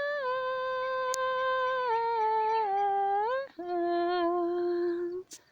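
A woman humming a slow melody in long held notes that step down, rise again, then settle on a long lower note that stops shortly before the end.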